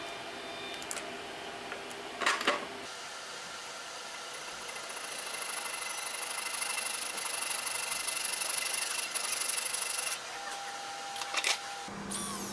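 Drill press running with a sanding drum in the chuck, a steady machine noise with a whine, broken by two sharp knocks, about two seconds in and near the end.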